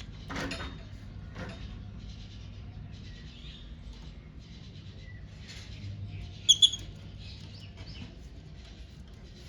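Pet lovebirds chattering softly and continuously, with two sharp, loud chirps in quick succession about six and a half seconds in. A short rustle comes just after the start.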